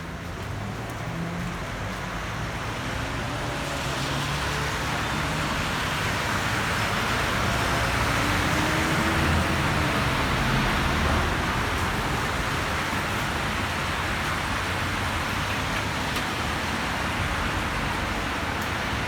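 Road traffic on a rain-wet main road: tyre hiss and engine hum from passing vehicles, swelling to a peak about halfway through and easing off.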